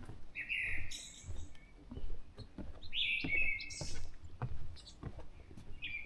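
A songbird singing at dawn: short phrases of clear notes that step between lower and higher pitches, repeated about every three seconds, three times.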